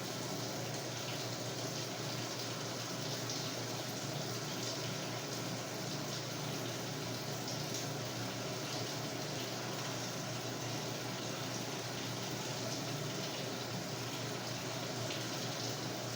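Samsung WA45T3200AW top-load washer filling its tub: a steady rush of water pouring in through the inlet.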